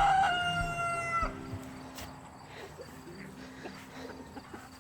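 Rooster crowing: the crow ends in a long held note that stops about a second in, after which only faint sounds remain.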